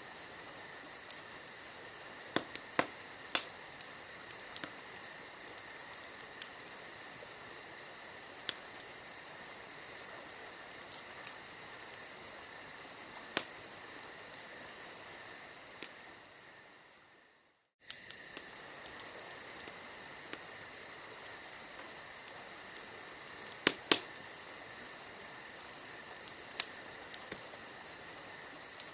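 Campfire crackling, with sharp scattered pops over a steady chorus of crickets chirping. About two-thirds of the way through everything fades out over a couple of seconds, then cuts straight back in.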